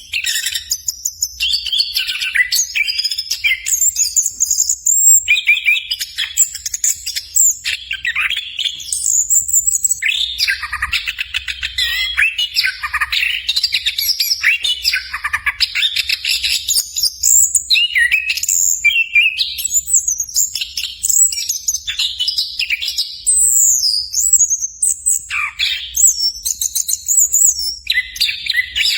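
Chestnut-capped thrush (anis kembang) singing a long, fast, varied song of chirps, trills and slurred whistles with hardly a pause.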